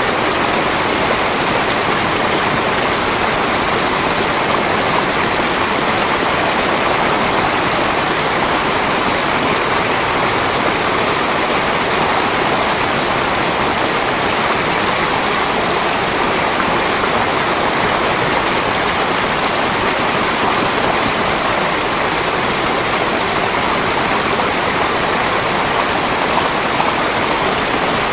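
Flowing water rushing steadily and loudly, with no rise and fall of waves.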